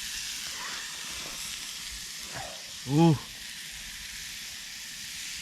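Steak sizzling steadily on a very hot cooking surface over a campfire.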